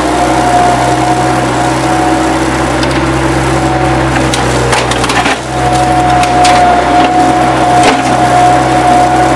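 Bobcat 763 skid-steer loader running steadily with a constant whine, while wood debris cracks and snaps several times in the middle as it is handled.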